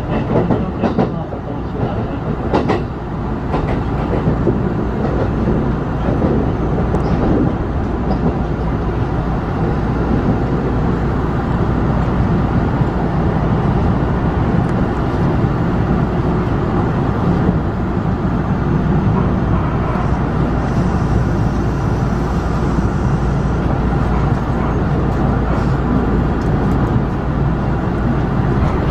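Running noise of a Kintetsu electric train heard from inside the front cab: a steady rumble of wheels on rail, with a few sharp clicks in the first few seconds.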